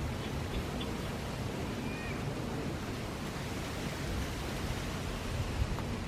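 Steady wind blowing, with a low rumble of gusts on the microphone, and palm fronds rustling in it.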